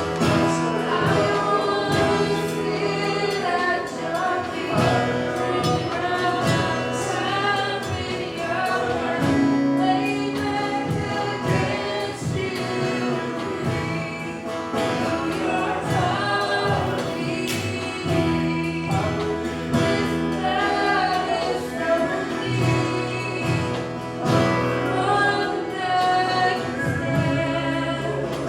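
A congregation and worship singers singing a gospel song with instrumental accompaniment and a steady beat.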